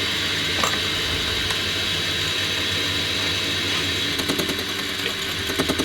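Metal lathe running steadily with a hum and a constant high whine, spinning a left-hand tool clamped in the chuck. Near the end a quick run of light ticks as the tool begins cutting the face of the workpiece.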